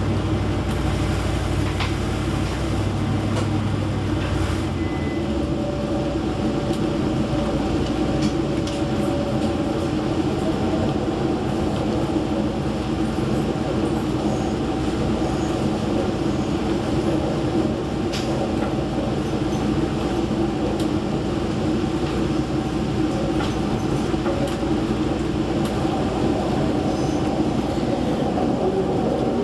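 Steady running noise of a diesel passenger train heard from inside the carriage: an even rumble and drone of engine and wheels on rail, with a few faint clicks from the track.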